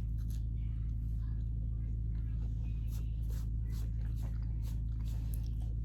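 Faint, scattered mouth clicks of someone chewing soft food over a steady low electrical hum.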